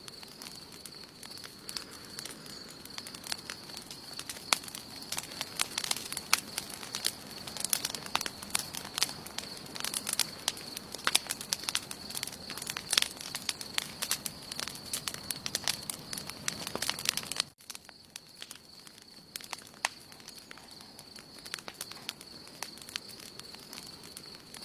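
Wood campfire crackling, with many sharp pops that come thick and fast, then thin out after a sudden brief drop about two-thirds of the way through. A faint steady high tone runs underneath.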